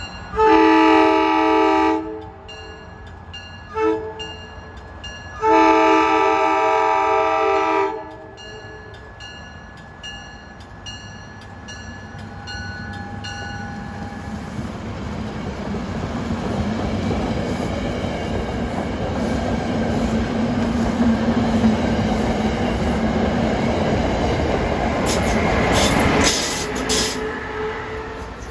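SEPTA push-pull commuter train's multi-chime horn: two long blasts with a short toot between. The train's running noise then swells for several seconds as it pulls through, with a run of rail clicks near the end before it eases off.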